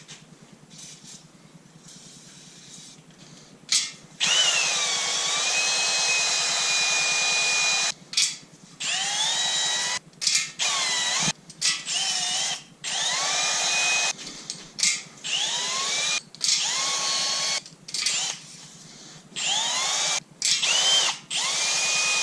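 A handheld power tool is triggered on and off many times, starting about four seconds in. Each run spins up with a rising whine, then holds a steady high whine over a rushing noise.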